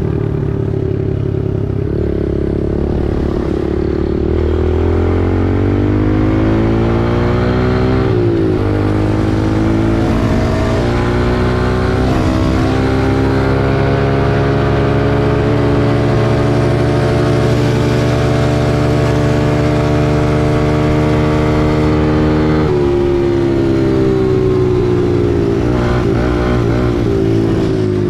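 Small single-cylinder four-stroke dirt bike engine riding under load, its pitch climbing as it accelerates, dropping suddenly at about eight seconds in and again about eight seconds before the end as it shifts up a gear, then climbing again.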